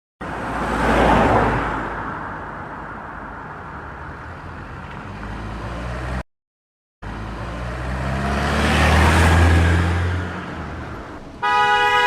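A motor vehicle's engine rumbling as it passes by, swelling and fading, in two separate clips, followed by a short horn honk near the end.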